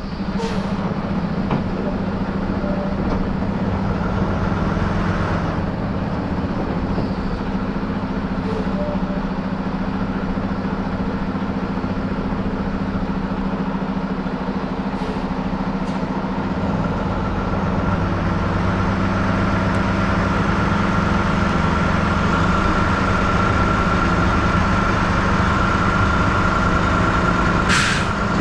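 Truck engine running steadily, with a high steady whine that grows stronger in the second half and a few brief sharp clicks.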